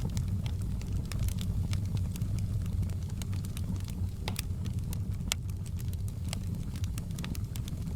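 Wood fire in a hearth crackling, with irregular sharp pops and snaps several times a second over a steady low rumble of burning.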